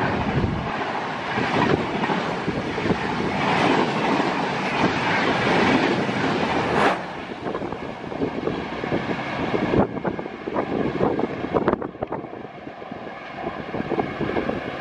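Express train's coaches rushing past at speed, a loud rush with rapid wheel clatter over the rail joints. About 7 seconds in it drops abruptly to a quieter train rumble with scattered sharp clanks.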